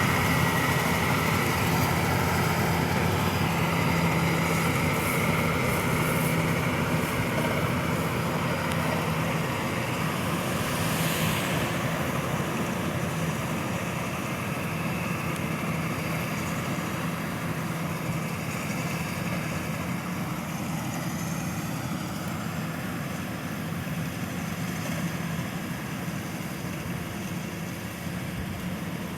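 Rice combine harvester's engine running steadily at a constant pitch, gradually growing a little fainter.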